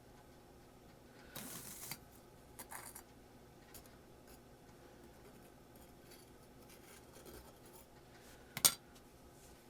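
Small handling noises: a short scrape about a second and a half in, a few light clicks soon after, and one sharp click near the end.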